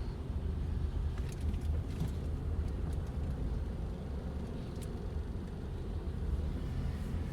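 Steady low road and engine rumble of a moving car, heard from inside the cabin, with a few faint ticks.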